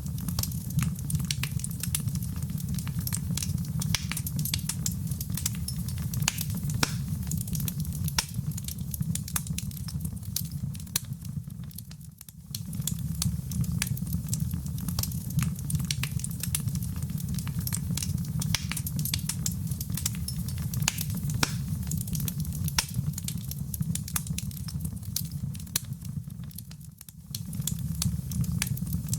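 Wood fire in a fireplace crackling, with many sharp pops and snaps over a steady low rumble of flame. The sound dips briefly twice and comes back.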